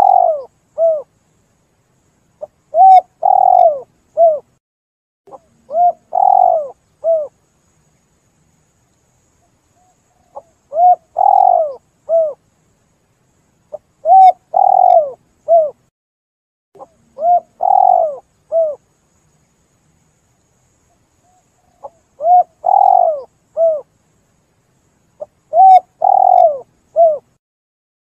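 Spotted dove (tekukur) cooing: a short phrase of three or four coos, repeated about every three seconds with silent gaps between.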